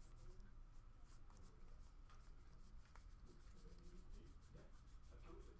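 Near silence with faint rustling and sliding of trading cards being handled and flipped, with a few small ticks.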